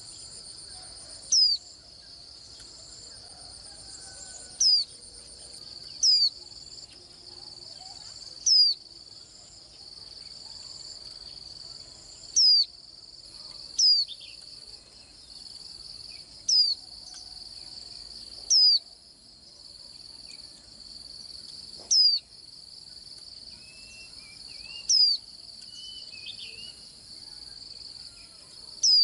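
A white-eye giving short, sharp, falling call notes about every two to three seconds, eleven or so in all, with a brief softer warble near the end. Behind it runs a steady high-pitched insect trill.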